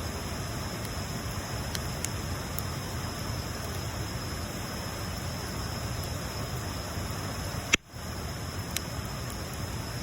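Wood bonfire burning: a steady hiss with a few sharp crackles, one of them followed by a brief break in the sound near the end.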